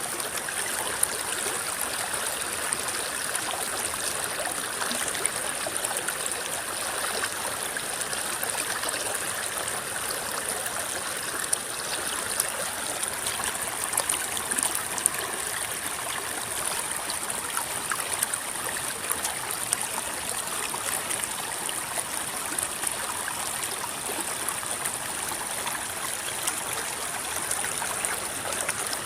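River water rippling and flowing steadily, with many small splashes and gurgles, over a steady high-pitched hiss.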